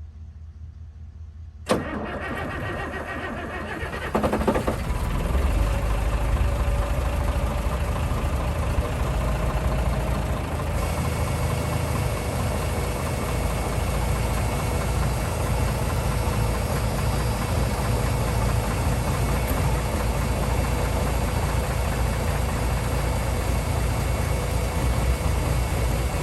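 M35A2 army truck's turbocharged multifuel straight-six diesel cold-started in about 17°F weather: the starter cranks for a couple of seconds, the engine catches about four seconds in, then runs steadily at idle.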